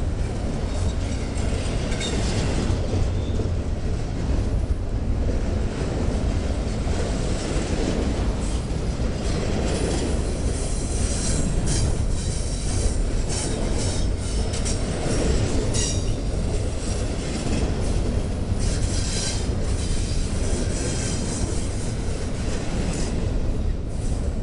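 Loaded double-stack intermodal well cars of a freight train rolling past close by: a steady heavy rumble of steel wheels on the rails. In the second half, repeated high-pitched wheel squeal comes through.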